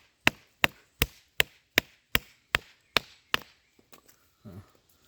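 A wooden baton strikes the spine of a Morakniv Robust knife again and again, driving the blade down through wood. There are about nine sharp, evenly spaced knocks, roughly two and a half a second, and they stop about three and a half seconds in.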